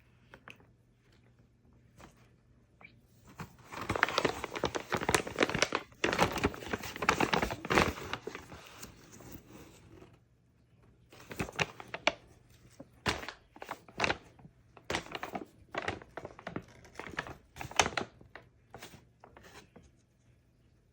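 Shopping bag rustling and crinkling as a cat moves in it. There is dense, continuous rustling for several seconds, then a string of separate crinkles and crackles.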